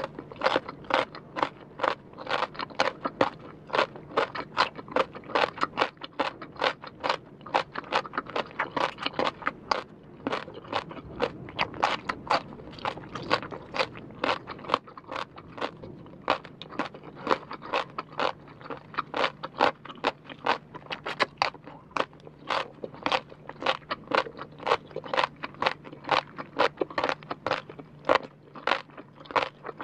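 Close-miked crunching of crisp rau tiến vua (celtuce stem) strands being bitten and chewed as they are drawn in through the lips: a rapid, continuous run of sharp crunches, several a second.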